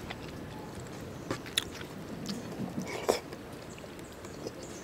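A person chewing lechon paksiw and rice, wet mouth smacks and clicks, with fingers picking at the food on the plate. A few sharp clicks, the loudest about three seconds in.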